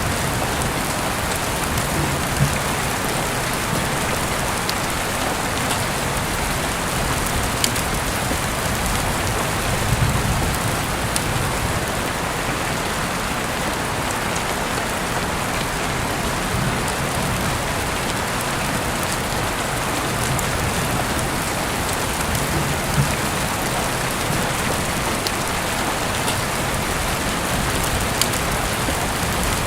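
Heavy rain falling steadily, with a few single drops ticking sharply now and then.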